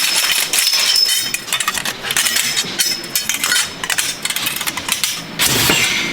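Metal clinking and knocking in quick, irregular succession, like metal parts and tools being handled and struck, with a brief metallic ring near the start.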